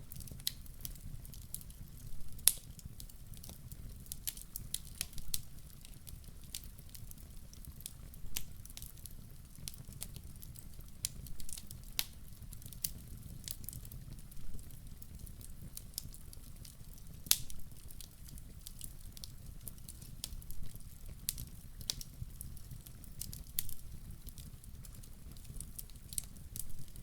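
Campfire crackling: irregular sharp pops and snaps of burning wood, some loud, over a low steady rumble of the flames.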